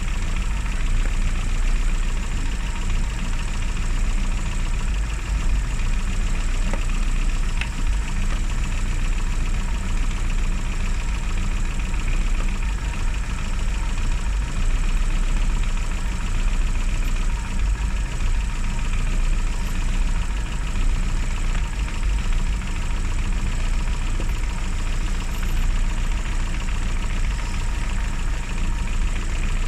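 Classic Mini's four-cylinder A-series engine with points ignition idling steadily, running on after being brought back to life following three months standing.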